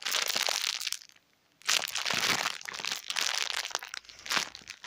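Crinkling and rustling as a squishy toy is handled, in irregular bursts of about a second, with a short silence about a second in.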